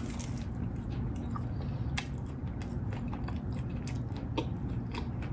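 Close-up chewing of a bite of fried appetizer: moist mouth sounds with many irregular small crunches and clicks.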